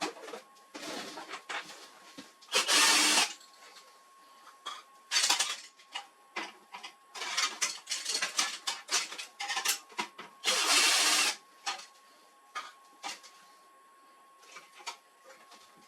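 Printer parts being handled during disassembly: irregular clicks and rattles, with three louder scraping bursts of under a second each.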